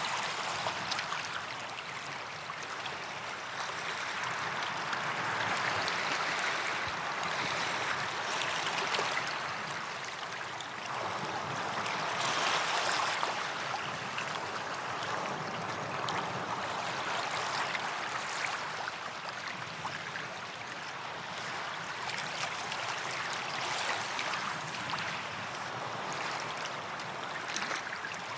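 Small sea waves washing up on a sandy beach: a steady hiss of surf that swells and eases every few seconds.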